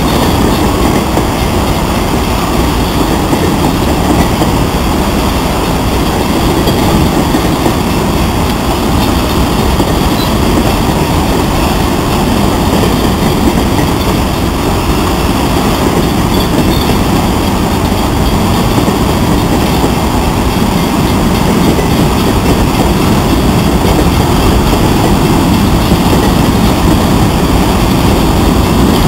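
Freight train of empty covered hopper cars rolling past, with steady, loud noise from the wheels on the rails.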